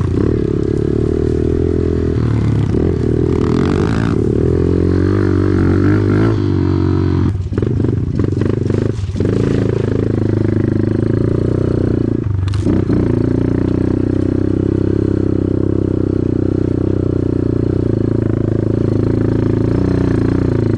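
Dirt bike's single-cylinder engine running steadily under throttle while being ridden. The note dips and shifts briefly a couple of times around the middle, as the throttle is rolled off and back on.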